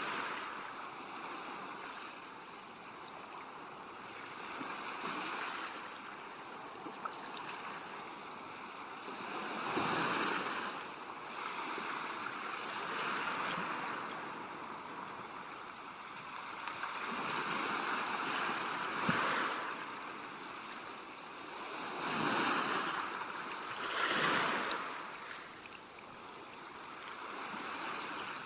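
Ocean waves washing in, a steady rush of surf with several louder swells as bigger waves break.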